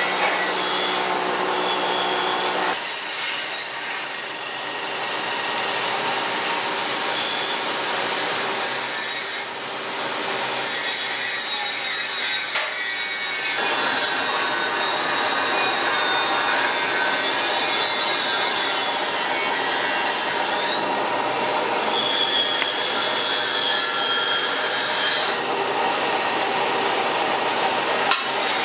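Log-rounding machine's rotating cutter heads milling a log into a cylinder: a loud, continuous, dense cutting noise, changing character abruptly about three seconds in and again about halfway through.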